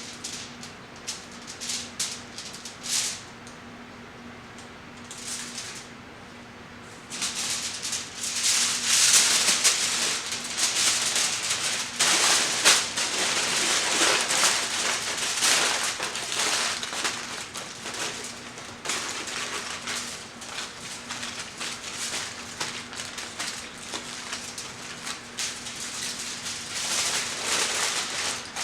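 Aluminium foil crinkling and rustling as it is folded and crimped around a pork shoulder; sparse crackles at first, then continuous and louder from about seven seconds in.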